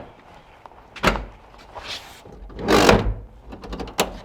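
Car door thudding shut about a second in, followed by a louder burst of knocking and handling noise just before three seconds and a sharp click near the end.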